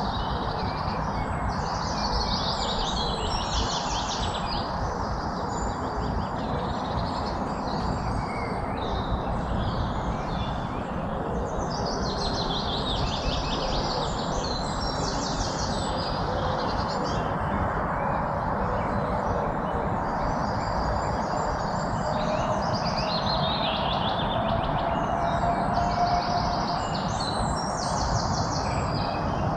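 Songbirds chirping and trilling in clusters of high notes every few seconds, over a steady background hiss.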